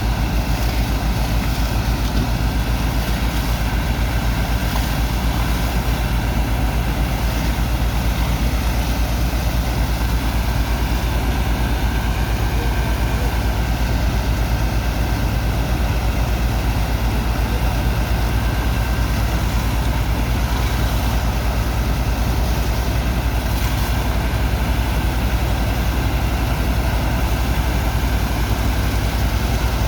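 Heavy engine of a sand-dredger pump running steadily at constant speed, a deep rumble with a fast, even pulse.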